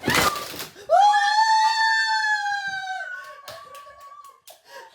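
A rooster crowing: one long call that rises, then holds and slowly falls for about two seconds, followed by a weaker, higher tail.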